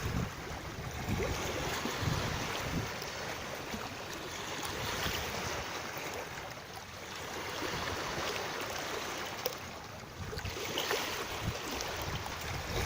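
Moving water, a steady rushing wash, with wind gusting on the microphone now and then, most strongly near the end.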